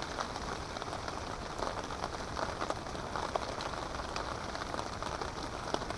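Steady rain pattering on a tarp overhead: a constant hiss with many small, scattered drop ticks.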